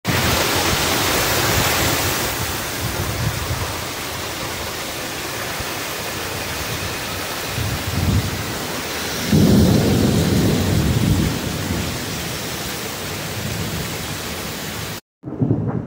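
Heavy rain pouring down in strong gusting wind, a loud dense hiss. A low rumble swells about nine seconds in. The sound cuts off suddenly near the end.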